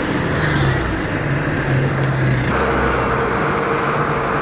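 Turbocharged car engine revving and running under throttle, its pitch shifting up and down in steps. About halfway through, a brighter rushing noise comes up over the engine.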